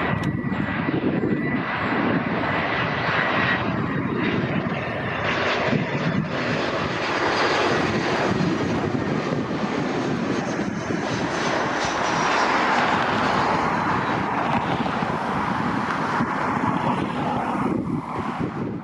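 Jet engines of a Vueling Airbus A319 airliner passing close by: a loud, steady rush of engine noise with a faint high whine that slides slowly down in pitch.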